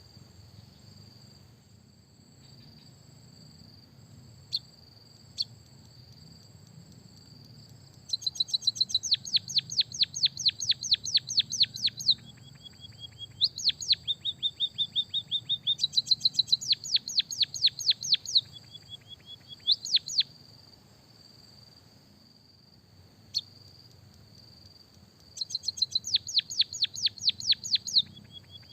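White-headed munia and canary song played from a recording. A steady thin high whistle runs under it all, with a couple of lone chirps in the first half. After that come three long runs of fast downward-sweeping chirps, about six a second, separated by short buzzy notes.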